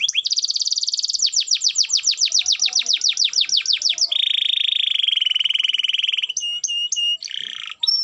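Domestic canary singing loudly: a very fast trill of repeated down-sweeping notes, then a long buzzing roll about four seconds in, then short clipped notes and a harsh chirp near the end.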